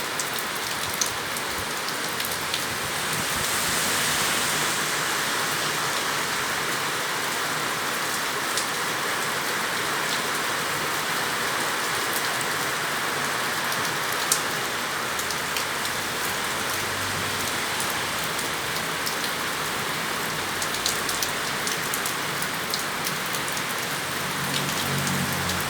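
Heavy rain falling steadily, a dense even hiss with occasional sharper drip impacts.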